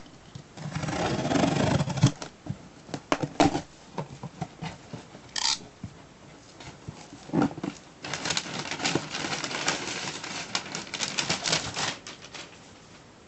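Cardboard subscription box being opened and unpacked by hand: rustling and crinkling with irregular clicks and taps, growing into a dense spell of crackling in the second half.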